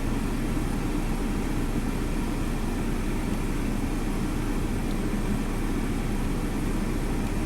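Steady low rumbling noise at an even level throughout, with no distinct events.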